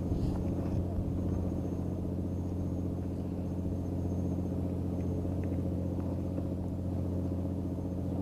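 Steady low engine drone: a constant hum of several low tones that holds unchanged, with a few faint clicks.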